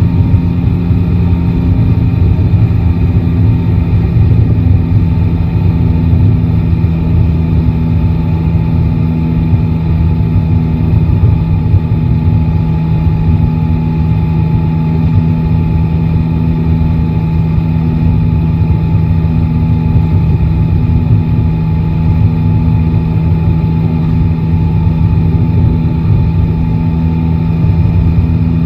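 Yamaha Tracer 9 GT's three-cylinder engine running at a steady, unchanging pitch, with a dense low rumble underneath.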